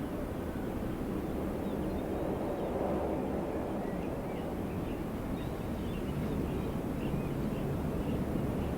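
Steady wind blowing, swelling a little about three seconds in, with faint high bird chirps scattered through it.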